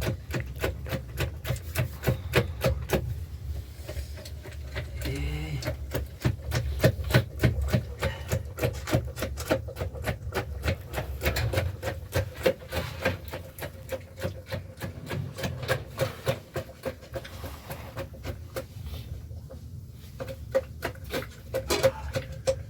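Wind buffeting the microphone in a low rumble, with rapid, irregular knocking and clicking.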